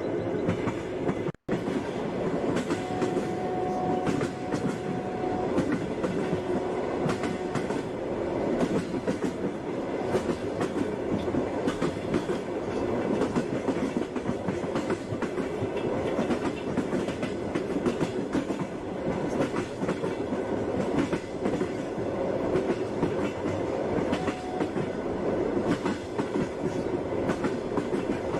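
Passenger train running steadily, its wheels clicking over the rail joints under a constant rumble. The sound cuts out for a split second about a second and a half in, and a faint thin whine runs for a couple of seconds after that.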